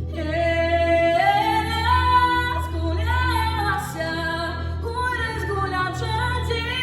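Female voice singing a song in long held, wavering notes over an instrumental backing track with a steady low bass.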